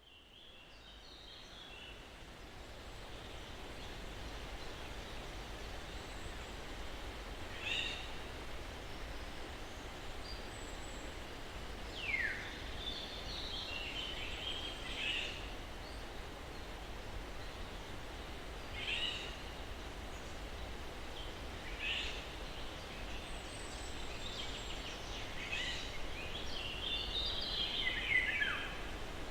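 Steady hush of a breeze through pine trees, fading in over the first few seconds, with scattered songbird chirps and short calls, one a falling whistle and a busier run of calls near the end.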